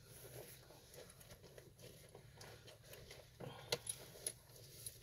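Near silence: still outdoor air with a faint hiss, and a few soft clicks about three and a half to four and a half seconds in.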